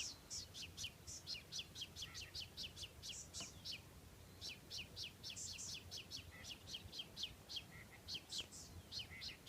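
A bird chirping in rapid runs of short, high, downward-sweeping chirps, about five a second, with brief pauses between the runs.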